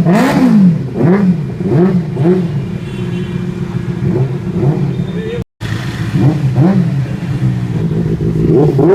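Benelli 600i inline-four engine through an aftermarket Ixil exhaust, idling and revved in a string of quick throttle blips, each rising and falling in pitch. The sound cuts out for a moment about halfway through.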